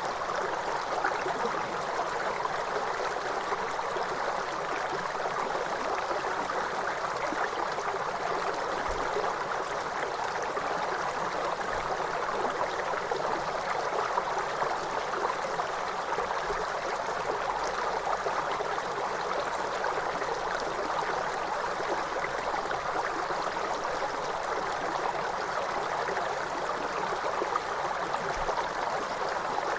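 Waterfall cascading with a steady, even rush of water and no change in level.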